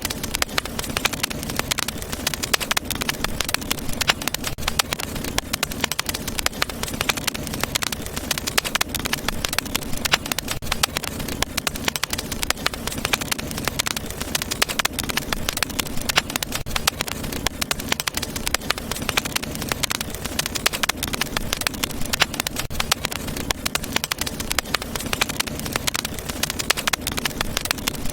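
Fire burning in a fireplace, crackling steadily with many small pops over a constant hiss.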